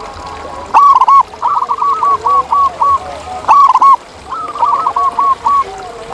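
Zebra doves (perkutut) cooing. The song comes twice, each time a pair of loud notes followed by a quick run of about six shorter coos, with softer, lower cooing underneath.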